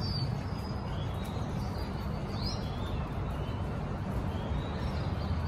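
Outdoor street background: a steady low rumble with a few short, high bird chirps, one near the start and two more around the middle.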